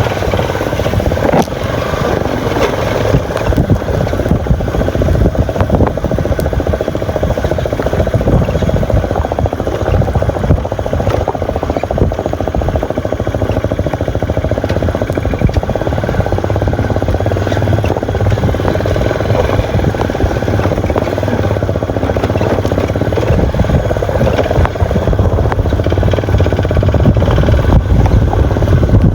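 Motorcycle engine running steadily while riding, a dense low rumble that grows a little louder near the end.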